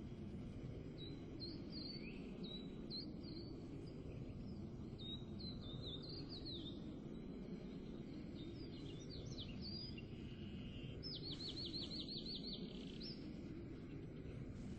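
Small birds calling outdoors: repeated short high chirps, then a quick trill of about ten notes near the end. Under them runs a steady low background rumble.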